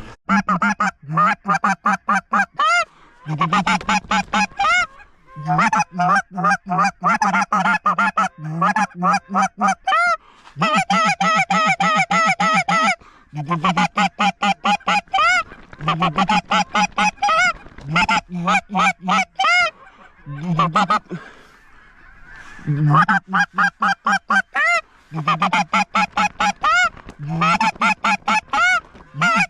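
Goose calls blown hard in fast runs of short honks and clucks, in bursts of a few seconds with brief pauses, to draw in a flock of geese.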